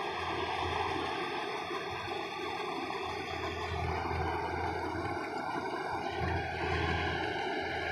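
Rice combine harvester running steadily while harvesting, its engine and machinery making a continuous, even noise.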